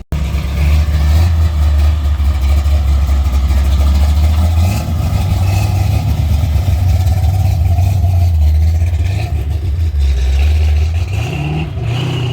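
Car engine with a deep, loud exhaust rumble, running steadily at close range, with a short blip about five seconds in and the pitch rising in a rev near the end.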